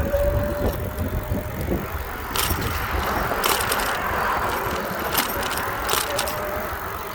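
Bicycle riding along a sidewalk, a steady rumble of tyres and wind on the microphone, with several sharp clicks and rattles.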